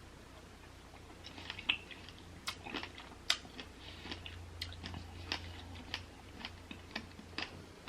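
A person chewing a mouthful of pomegranate seeds and berries close to the microphone, with irregular sharp clicks as the seeds are bitten, starting about a second in.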